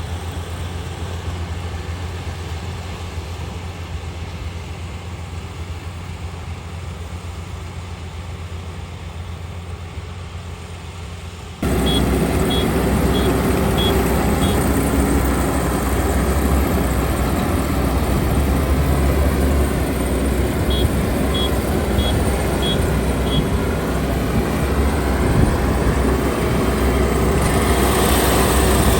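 Kubota ER572 combine harvester's 72-horsepower diesel engine running steadily. About a third of the way in it suddenly becomes louder, with a fuller clatter of machinery. Twice a run of five short, high electronic beeps sounds from the machine.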